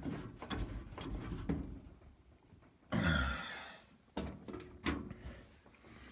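Light knocks and clicks of metal dryer parts being handled, with a short, louder rushing noise about three seconds in.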